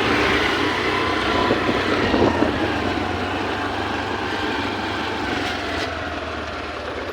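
A road vehicle passing with engine and tyre noise, loudest in the first couple of seconds and then slowly fading, with a faint whine that slowly falls in pitch.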